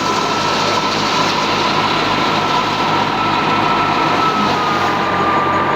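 Thresher driven by an Al-Ghazi tractor, running steadily with a loud continuous mechanical clatter and a constant high whine.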